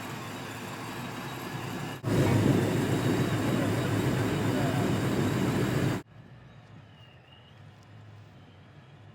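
Engine exhaust through aftermarket long-tube headers and a 3-inch stainless steel dual exhaust, in cut-together clips. It runs steadily for about two seconds, then a much louder stretch of about four seconds cuts off abruptly to a faint background.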